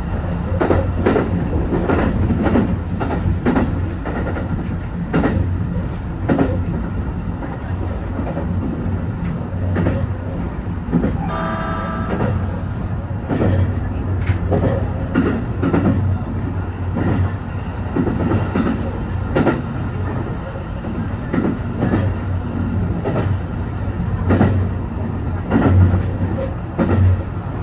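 A train running along the track: wheels clicking over rail joints irregularly above a steady low hum. About twelve seconds in, the train's horn sounds once, briefly.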